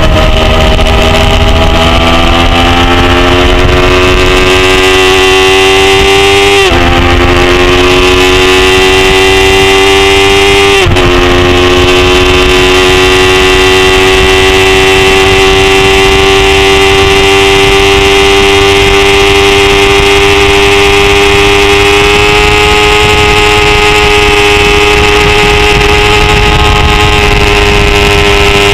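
A 250 cc production race motorcycle's engine is run hard, its note climbing through the gears. Two quick upshifts about 7 and 11 seconds in cut the pitch back briefly. It then holds high, steady revs along the straight, with wind rush over the fairing.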